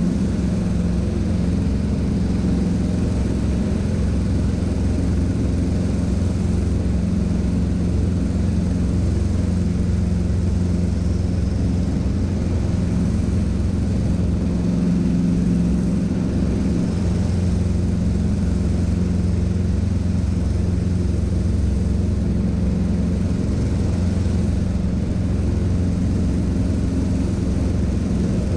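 Cessna 150's Continental O-200 four-cylinder engine and propeller running steadily, with an even drone.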